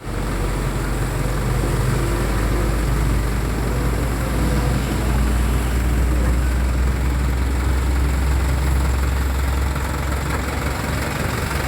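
Isuzu NMR 71 dump truck's diesel engine idling steadily with a deep, even rumble.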